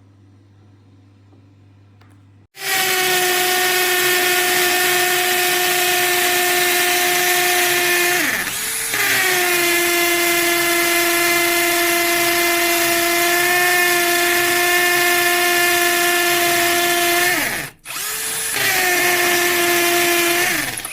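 Einhell TP-CD 18/80 Li-i BL cordless drill/driver's brushless motor running at a steady high speed, a loud whine starting about two and a half seconds in. Its pitch sags and recovers once about a third of the way through, then it cuts off, spins up again, and winds down near the end.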